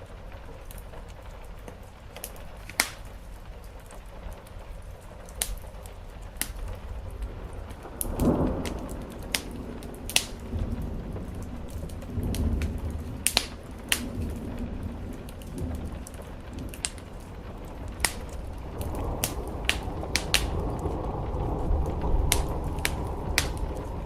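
Wood fire crackling with frequent sharp pops over a steady hiss of rain on a roof. A low rumble swells in about a third of the way through and builds again near the end.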